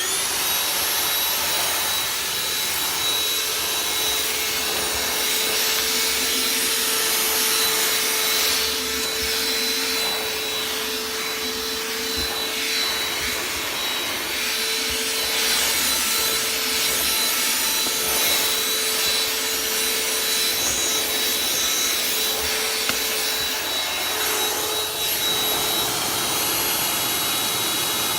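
A battery-powered handheld vacuum switches on and runs with a steady whine, its nozzle rubbing and scraping over the car's interior as it cleans.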